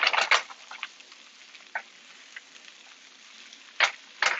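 Spinach, onions and garlic sizzling quietly in a frying pan, with sharp clicks of a utensil against the pan: several at the start, one about two seconds in, and two loud ones near the end.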